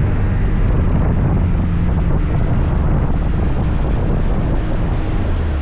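Motor scooter engine running steadily while riding, with wind rushing over the microphone.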